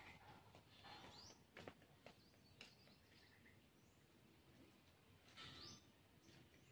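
Near silence with a few faint, high bird chirps, loudest near the start and again about five seconds in.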